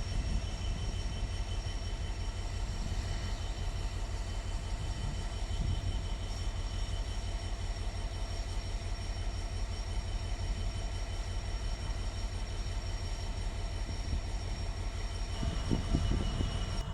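Train running: a steady low rumble with constant high whining tones, and a few heavier low knocks near the end.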